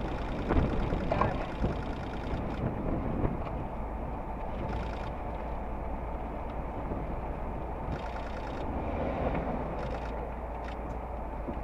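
Steady low rumble and hum inside a stopped vehicle's cab, its engine idling. Near the end another car drives past close by.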